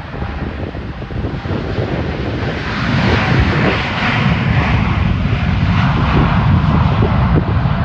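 Jet airliner engines passing close, the noise swelling about three seconds in and staying loud, with wind buffeting the microphone underneath.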